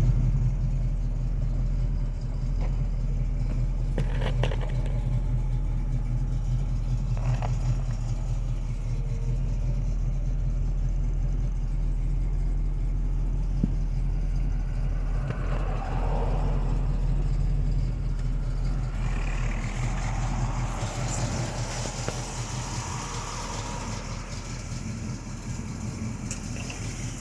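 Pontiac 455 V8 engine running steadily with a low rumble, easing off slightly near the end.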